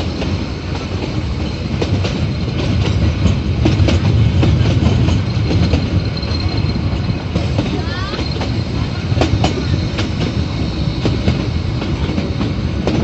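Metre-gauge passenger train running, with a steady rumble and wheels clattering over the rail joints. There is a faint high wheel squeal, and a brief sharper squeal about eight seconds in.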